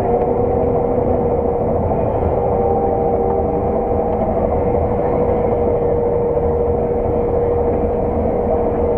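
Heavy farm machine's diesel engine and drivetrain running steadily under load, heard from inside the cab as an even, low drone with a constant whine.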